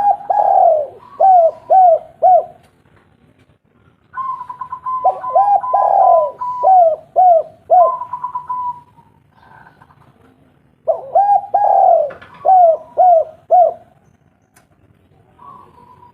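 Spotted dove (tekukur) cooing in three phrases, each a run of several short rounded coos, with quiet pauses between phrases.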